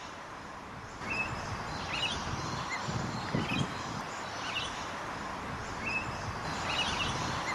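Birds chirping in short calls about once a second over a steady outdoor background hiss, with a brief low rumble about halfway through.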